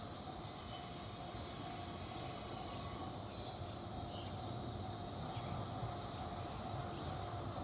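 Train at the station: a steady low rumble with a constant hum, growing slightly louder near the end.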